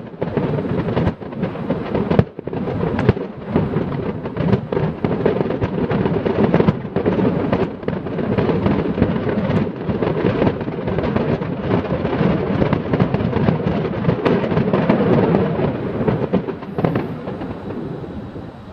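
Fireworks display: a dense, rapid run of bangs and crackles, many explosions overlapping, dying away over the last few seconds.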